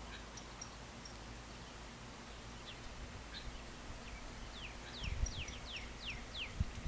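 Outdoor evening ambience with birds: scattered short chirps, then a bird sings a quick run of about six falling whistles, roughly three a second, in the latter half. Brief low rumbles come in twice near the end over a faint steady background hiss.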